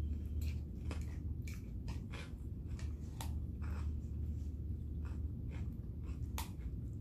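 A person chewing a mouthful of food, with short scattered mouth clicks, over a steady low hum.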